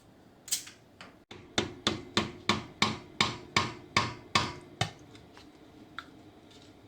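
Hammer blows on metal: one strike, then a run of about ten evenly spaced blows, roughly three a second, each ringing briefly.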